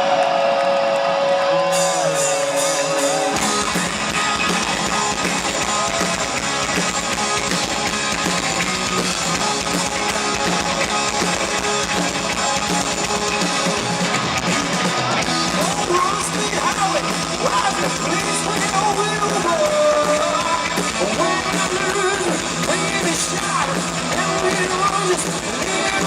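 Heavy metal band playing live through a concert PA: a lone guitar note rings at first, then drums, bass and distorted electric guitars come in together about three seconds in and play a driving rock riff.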